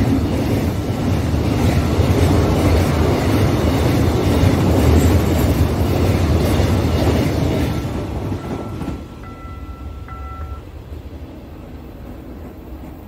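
Freight train rolling past at a railway level crossing, a loud steady rumble of wheels on rails that fades away about eight seconds in as the last wagons pass. The crossing's warning bell rings through it and is heard on its own afterwards, stopping about ten seconds in as the barrier goes up.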